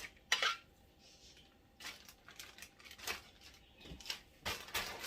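Plastic bag rustling and crinkling in short, scattered bursts as raw chicken breasts are put into it.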